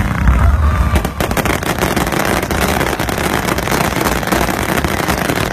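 Aerial fireworks: deep booms in the first second, then a dense, rapid crackle of many small bursts.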